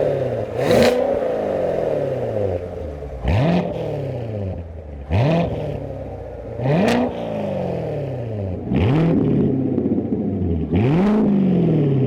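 C7 Corvette's 6.2-litre V8 revved in six quick throttle blips about two seconds apart, each climbing sharply and then falling back toward idle, through an AWE Track Edition axle-back exhaust: a straight-through system with no mufflers or resonators.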